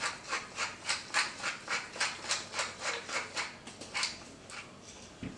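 Salt being shaken rapidly over raw chicken in a bowl, a quick even run of about five short hissy shakes a second that stops about four seconds in.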